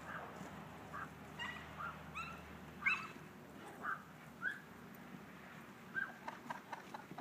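A bird calling in short chirps, about ten of them at irregular intervals, with a few faint knocks near the end.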